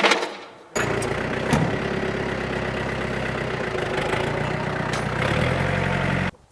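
A brief clatter, then a vehicle engine idling steadily, cutting in abruptly under a second in and stopping just as abruptly near the end.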